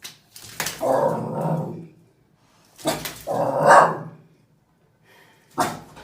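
A dog barking and growling: two drawn-out barks about a second apart, then a short one near the end.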